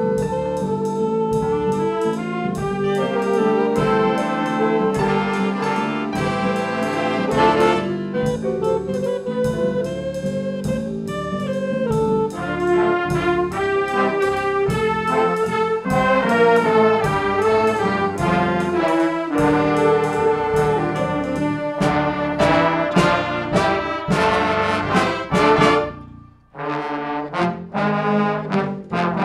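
Student brass ensemble playing, trombones and trumpets carrying a lively tune with a steady pulse. There is a short break near the end before the band comes back in.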